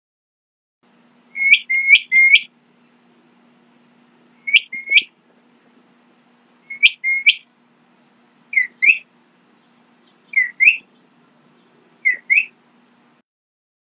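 A bird calling: short, sharp upward-slurred whistled notes in groups of two or three, repeated six times about every two seconds. The later notes dip briefly before rising.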